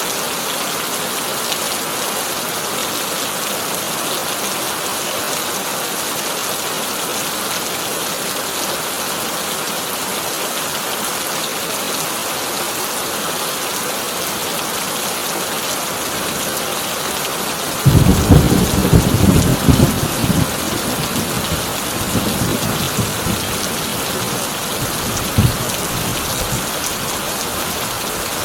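Heavy rain drumming steadily on a tin roof. About two-thirds of the way through, a sudden loud thunderclap breaks in and rumbles for a few seconds, followed by fainter rumbles and one short crack.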